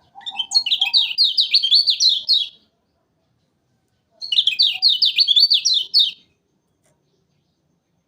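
Kecial kuning white-eye singing two fast, high, chattering phrases of about two seconds each, with a pause of about a second and a half between them. Each phrase is a quick run of sharp notes that sweep downward.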